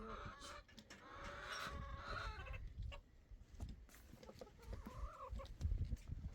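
Chickens clucking: a run of clucking for the first couple of seconds, then a single short call about five seconds in.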